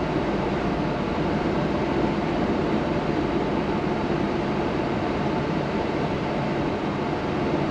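Steady engine drone and running noise heard from inside a moving vehicle's cabin.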